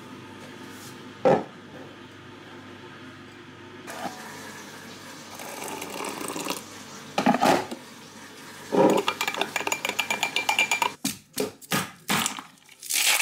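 Household clatter: dishes and utensils knocking and scraping in separate bursts, then a quick run of strokes and a few sharp knocks near the end.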